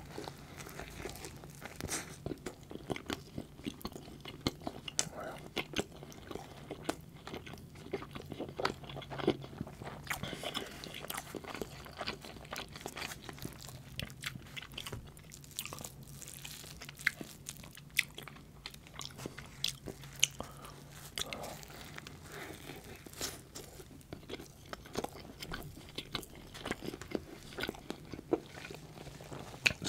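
A person biting into and chewing an Arby's sandwich close to the microphone, making many small crackling mouth clicks and crunches.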